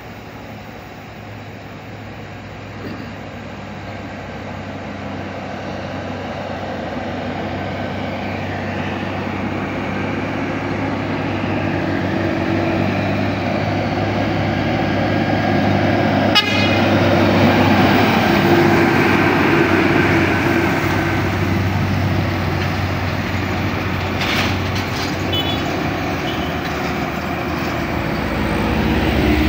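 A heavy road vehicle's engine, a bus or truck, with a steady low drone that grows louder for the first half as it comes closer, then stays loud as it passes.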